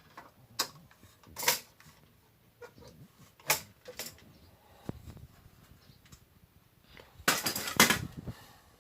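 Scattered sharp clicks and knocks from a bathroom exhaust fan housing being worked at by hand, with a quick cluster of clatter near the end.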